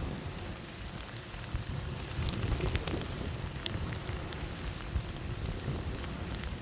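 Storm wind blowing in gusts with a low rumble, with scattered sharp ticks of rain striking a surface.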